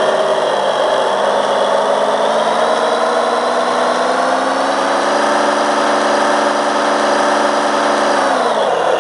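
John Deere 8420 tractor's diesel engine running, its pitch creeping up slightly over the first few seconds, holding steady, then falling away sharply near the end as the revs drop.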